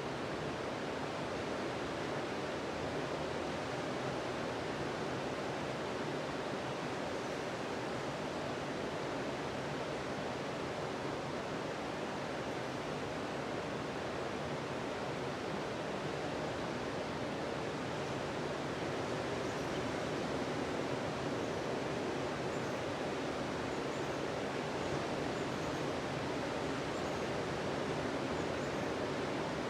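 Sea surf breaking on a sandy beach: a steady, even wash of waves with no single break standing out.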